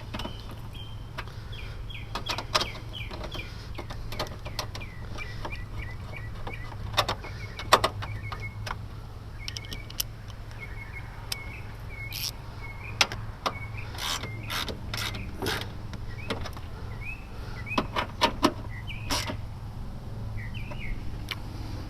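Scattered metal clicks and knocks of hand tools working on a car battery and its hold-down, with small birds chirping throughout and a steady low hum behind.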